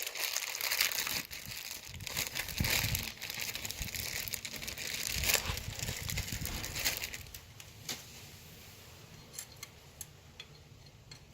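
Crinkling and rustling of wrapping or paper as new clutch plates are handled and unpacked for fitting. It stops about seven seconds in, and a few light metallic clicks of plates being set in place follow.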